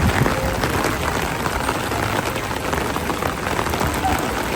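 Steady rain falling and pattering on surfaces in windy weather, with a low rumble of wind.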